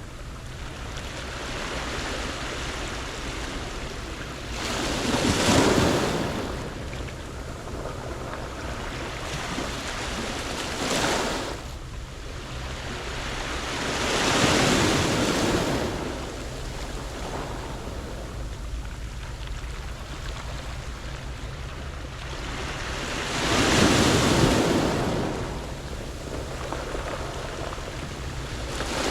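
Waves breaking on a pebble beach and washing back over the stones, with a steady rush between them. Three larger waves break about 5, 14 and 24 seconds in, and a smaller one about 11 seconds in.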